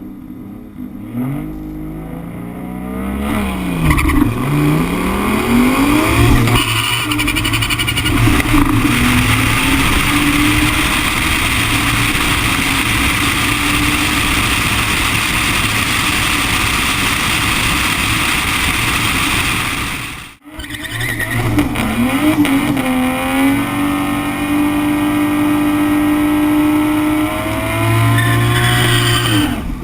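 Turbocharged 2JZ straight-six in a BMW E30 drag car running hard down the strip, its pitch climbing and falling through the gear changes, then held at high revs. The sound cuts off suddenly about twenty seconds in, then the engine revs up again and holds high.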